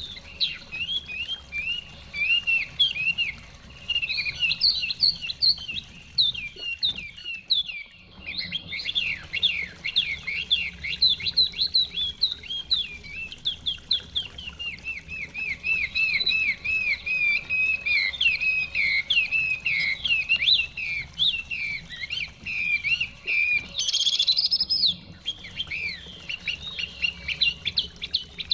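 Chinese hwamei (họa mi) singing a long, continuous run of quick whistled notes that sweep up and down in pitch, broken by short pauses twice.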